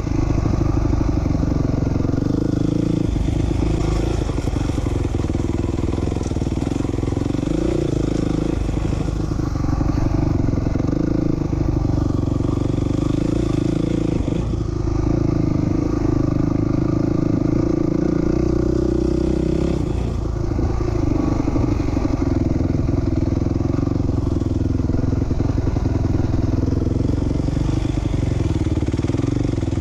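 Motorcycle engine of a 450R (a 450 cc four-stroke single) running at a steady, moderate throttle while being ridden, the note dropping off briefly about halfway through and again about two-thirds through.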